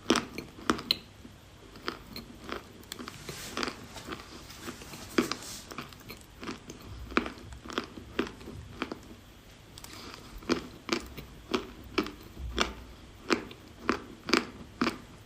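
A person biting and chewing pieces of pressed chalk close to the microphone: crisp, irregular crunches that settle to about two a second in the second half.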